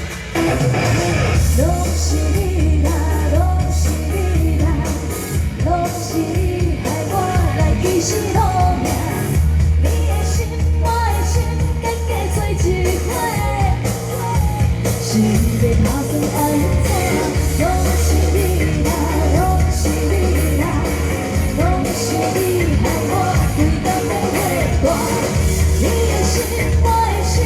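A singer performing a Taiwanese pop song live, her voice carrying the melody over a loud pop-rock accompaniment with a strong, pulsing bass.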